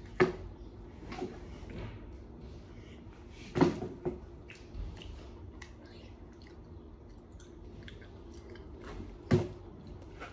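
Close-up chewing and biting of food, with small wet clicks throughout and three sharper, louder bites or knocks: just after the start, about three and a half seconds in, and near the end.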